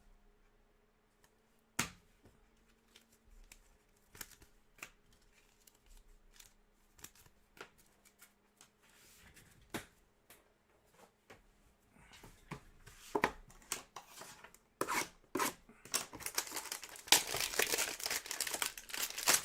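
Sparse light clicks and taps of trading cards being handled, then a trading-card pack's wrapper crinkling and being torn open, the crinkling growing denser and loudest near the end.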